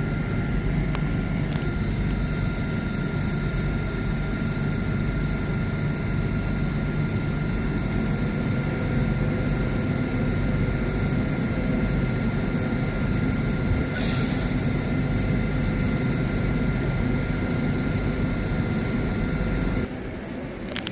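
LNER Class 801 Azuma electric train standing at the platform, its equipment giving a steady hum with a thin whine over a low rumble. There is a short hiss of air about two thirds of the way through, and the sound cuts off abruptly near the end.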